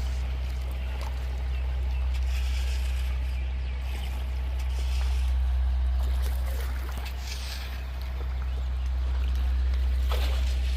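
River water gurgling and splashing around a bamboo raft drifting down a shallow river, over a steady low rumble that swells and fades every few seconds.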